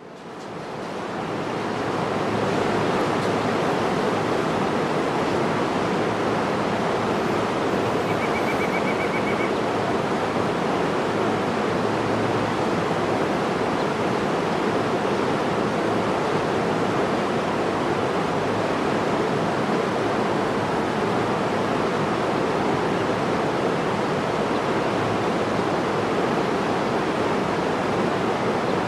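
Steady rushing water fading in from silence over the first two seconds, then holding even. A brief faint high trill sounds about eight seconds in.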